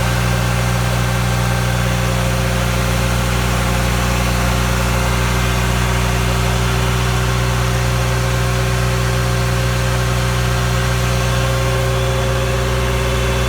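New Holland TS90 tractor's diesel engine running at a steady speed while driving a PTO dynamometer, a constant, even engine note with no change in pitch.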